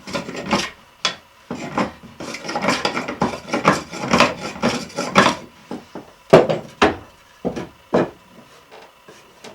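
Hand plane taking shavings off wood in a run of quick strokes, followed by a few shorter, sharper strokes in the second half.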